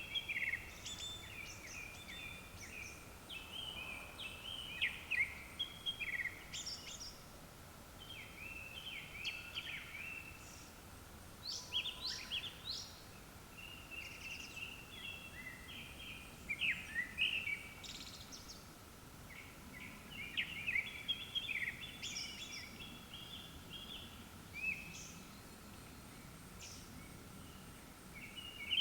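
Japanese thrush (kurotsugumi) singing: a series of short, varied whistled phrases every few seconds, some ending in thin high notes.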